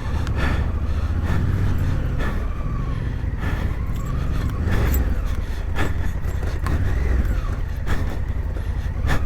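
Adventure motorcycle engine running at low speed on a rough off-road track, a steady deep rumble with scattered knocks and rattles from the bike going over the ground.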